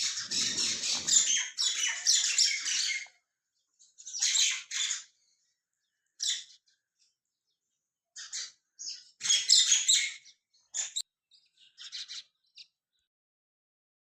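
A flock of small birds chirping and twittering in bursts: a dense chorus for the first three seconds, shorter bursts after, another dense burst around nine to ten seconds, then dying away near the end. A low rumble sits under the first burst.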